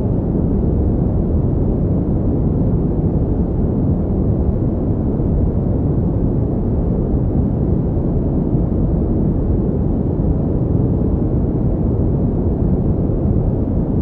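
Pink noise: an even, unbroken hiss weighted toward the low end, deep and rumbling rather than bright.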